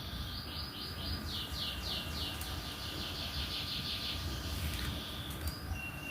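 A songbird singing a trill of rapid repeated high notes, about four a second, that stops about four seconds in, then a short single whistle near the end, over a steady low background hum.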